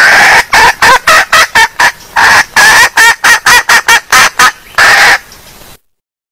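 Red junglefowl hen calling in a quick run of about eighteen short, loud notes, with a longer note near the end before it cuts off sharply. It is a recorded hen call used as a lure to draw in wild junglefowl.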